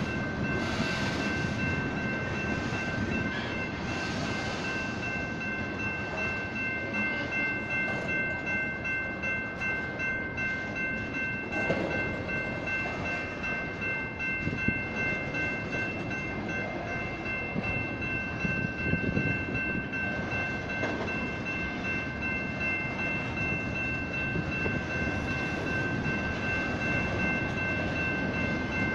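Grade-crossing electronic bells (General Signals type) ringing continuously, their high tones steady throughout, over the low rumble and wheel clatter of locomotives moving slowly across the crossing.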